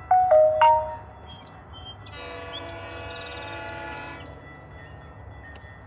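A three-note electronic chime rings out loudly at the start, each note struck and fading. About two seconds in, a distant train horn sounds one steady chord for about two seconds, with faint bird chirps.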